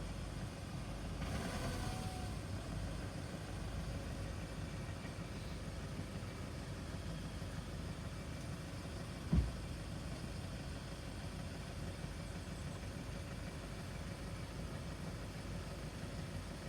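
CrossCountry Class 170 Turbostar diesel multiple unit passing over the level crossing, its running noise steady. It carries a brief tonal whine about a second in and a single short thump about nine seconds in.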